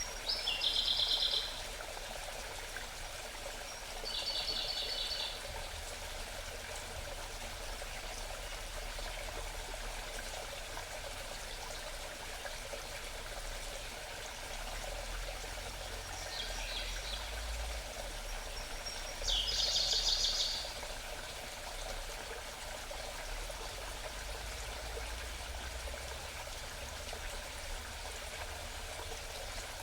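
A small mountain stream babbles steadily. A songbird sings four short phrases over it, each about a second long, made of fast repeated high notes. The first and last phrases are the loudest.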